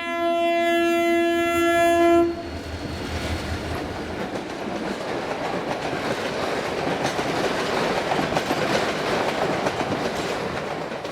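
Train horn sounding one long steady blast that cuts off about two seconds in, followed by the steady noise of the train running along the track.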